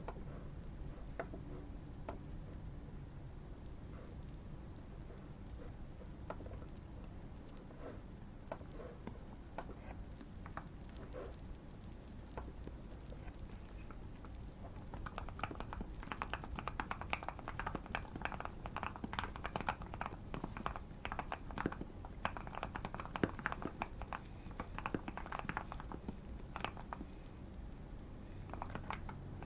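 Typing on a modded Keychron Q1 custom mechanical keyboard, rapid clicky keystrokes. The keystrokes are scattered at first, then come in a fast, dense burst from about halfway until near the end. Light fireplace crackling runs underneath.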